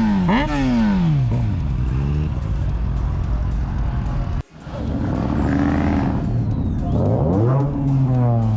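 A vehicle engine revved several times in quick succession, each rev rising and then falling away, then steadier running after a brief cut-out about halfway through, and another rev rising and falling near the end.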